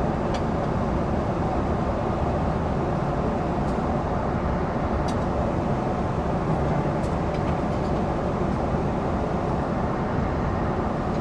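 Steady airliner cabin noise in flight, the even rush of engines and airflow, with a few faint clicks scattered through it.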